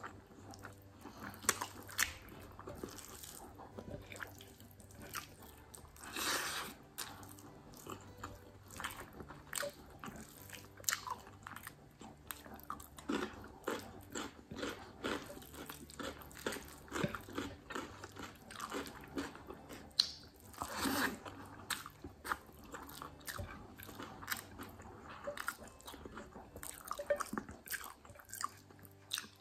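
Close-up eating sounds of a person eating rice and curry by hand: wet chewing and lip smacks with many short irregular clicks, along with fingers mixing rice and curry on a plate. A few louder, longer bursts of mouth noise come about six seconds in and again near twenty seconds.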